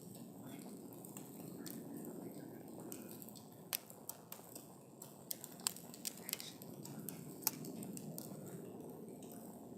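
Campfire burning: a steady low rush of flames with frequent sharp crackles and pops from the burning wood, a few louder snaps scattered through.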